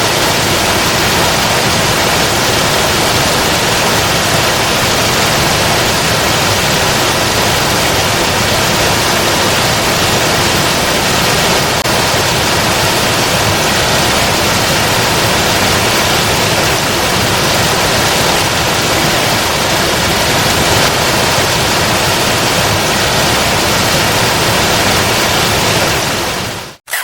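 Waterfall running full after heavy rain and flooding: a loud, steady rush of falling water that cuts off abruptly near the end.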